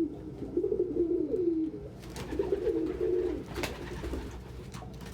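Domestic pigeons cooing in repeated low, wavering phrases, with a few sharp taps in between.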